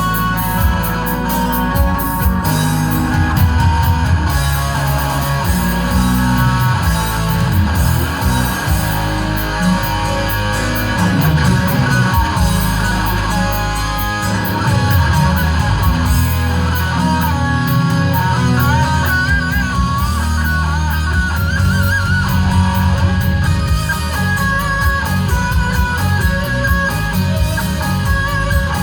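Live instrumental shred-rock: a distorted electric guitar plays lead over bass guitar and drums. In the second half the guitar holds and bends notes with a wide wavering vibrato.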